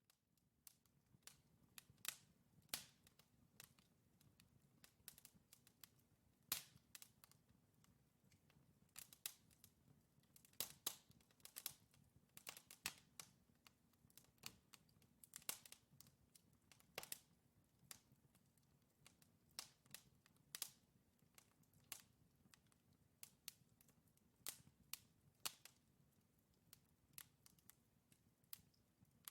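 Wood logs burning in a fireplace, crackling: irregular sharp pops and snaps, several a second at times, over a faint low hum.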